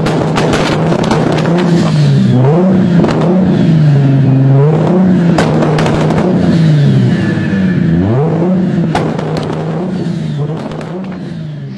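Toyota Supra MK4 Turbo's straight-six engine revving loudly, its pitch rising and falling every second or so, with two deeper drops and quick climbs, over many sharp crackles. It eases off near the end.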